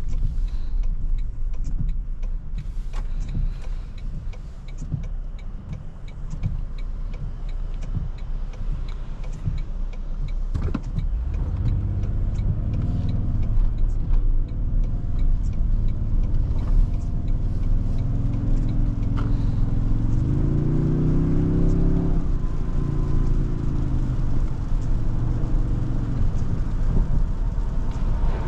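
Cabin sound of a 2023 Toyota Tundra 1794's twin-turbo V6 hybrid being driven in the rain. For the first ten seconds or so there is only road and rain noise with scattered ticks. About eleven seconds in, the engine note comes in and rises as the truck accelerates, climbs again around twenty seconds in, then holds steady.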